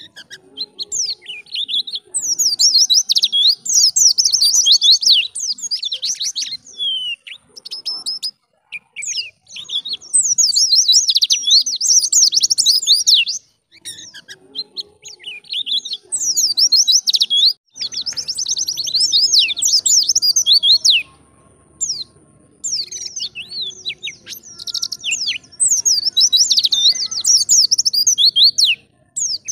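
White-eye (pleci) singing fast, high, twittering song in phrases a few seconds long with short pauses between them: the continuous 'gacor' wild-type song that keepers play to set captive white-eyes singing.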